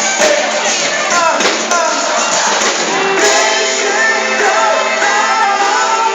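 Live gospel pop band playing, with a singer's voice over the music.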